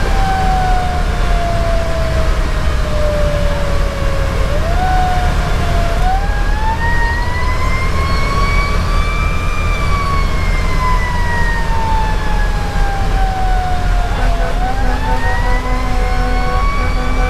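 Federal Q2B mechanical siren on a fire engine, winding down, winding back up, coasting down and winding up again near the end in slow pitch sweeps, heard from inside the moving truck over the steady low rumble of its diesel engine and road noise.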